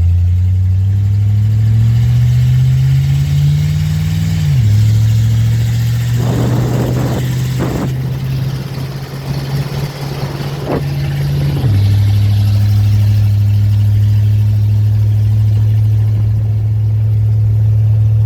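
1946 Dodge pickup's flathead straight-six engine pulling the truck along. The revs climb for the first four seconds, then fall suddenly as it shifts up. It holds steady, with some rattling noise in the middle, then drops again a little before halfway and settles into a steady cruise.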